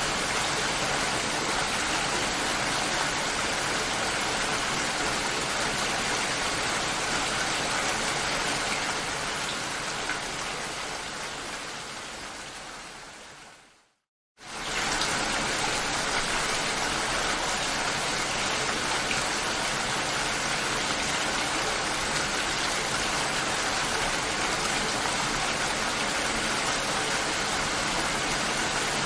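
Steady rain that fades out over several seconds to a brief moment of silence about halfway through, then starts again suddenly at full level.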